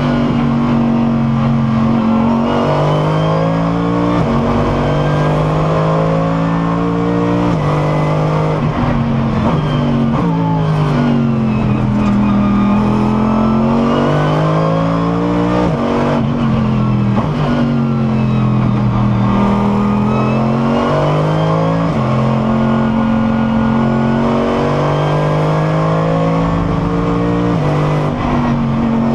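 Mercedes SLS AMG GT3's V8 engine heard onboard at racing speed. The engine note climbs and drops sharply at each upshift several times, and in places sinks and climbs back as the car slows for a corner and accelerates out.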